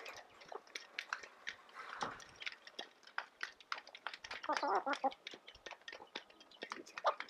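Goats eating feed, a steady run of small crunching and clicking bites. A short wavering bleat comes about halfway through, with a briefer call near the end.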